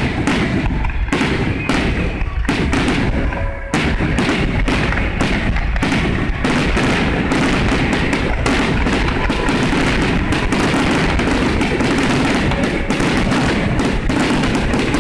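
Fireworks display: a rapid barrage of bangs and crackles, with shots overlapping into a continuous rumble from about four seconds in.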